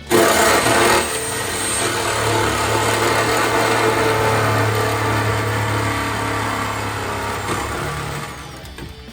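A power tool running loudly, starting abruptly and winding down near the end, most likely cutting the truck's sheet-metal body.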